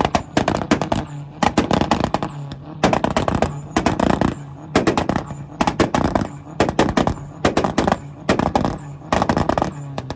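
Tuned Volkswagen's engine held on a two-step launch limiter, its exhaust firing repeated bursts of rapid pops and bangs, about one burst every second, with the engine running between bursts. The popping stops near the end.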